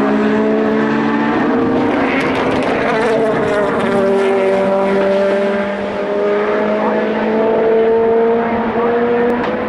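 Endurance race cars' engines running at speed on the circuit, several engine notes overlapping and gliding slowly in pitch as the cars pass.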